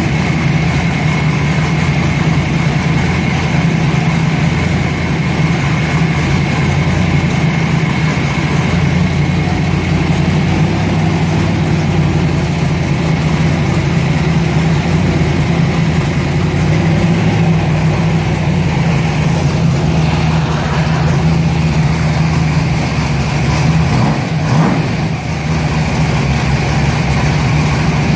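Freshly built Chevy 350 small-block V8 with a solid-lifter cam, running steadily at idle with the cam's lope the title calls nasty.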